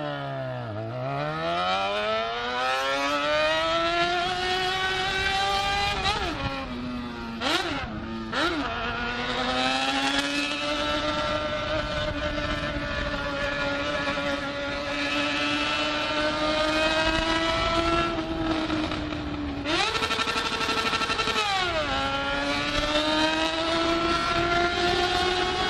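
Honda Hornet motorcycle engine accelerating under way, its pitch climbing, falling back sharply with each gear change around six seconds in and again near twenty seconds, with a couple of quick throttle blips in between, then holding a steady cruise.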